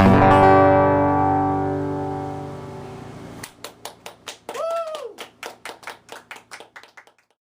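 Final acoustic guitar chord ringing out and fading away, then a few people clapping, about four claps a second, with one short whoop a little before the middle of the applause; the clapping stops about a second before the end.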